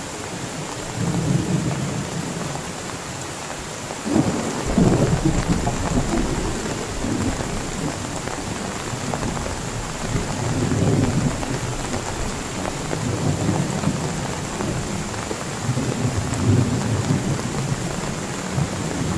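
Heavy rain falling steadily, with low rolls of thunder that swell and fade several times. The strongest roll starts suddenly about four seconds in.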